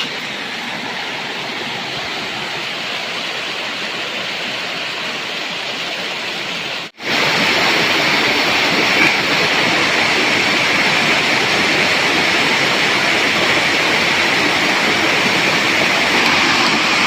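Steady rushing of a forest stream's flowing water. It breaks off for an instant about seven seconds in and comes back louder.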